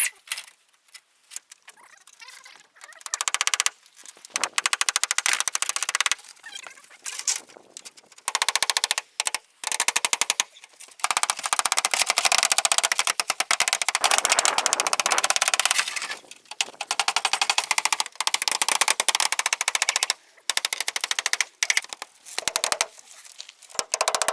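A rapid, dense clatter of knocks in bursts separated by short gaps: restoration work noise, fast-forwarded in a timelapse.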